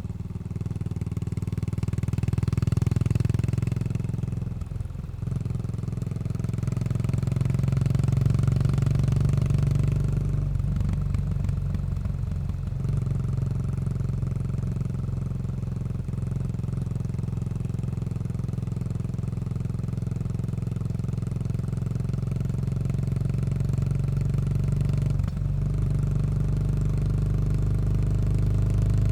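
Yamaha SR400 single-cylinder four-stroke motorcycle engine through a slip-on cone muffler, pulling through the gears with brief drops in the exhaust note at the gear changes, then cruising at a steady pace.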